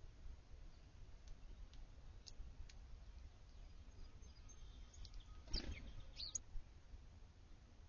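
Faint, short high chirps and call notes from small backyard birds, scattered through. About five and a half seconds in comes a brief louder rustle, followed at once by a quick falling chirp.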